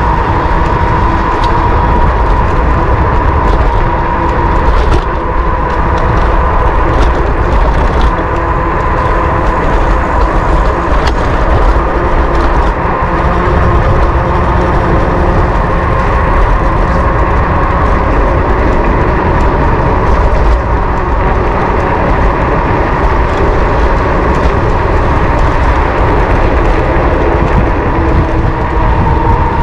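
Wind rushing over the microphone of a camera riding on a moving electric bike, a loud, steady low rumble with a steady whine running through it and occasional light ticks.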